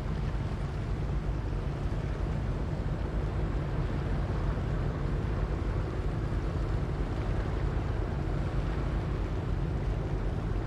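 Steady low drone of a river sand-carrying boat's engine, holding a constant pitch, over a steady hiss of wind.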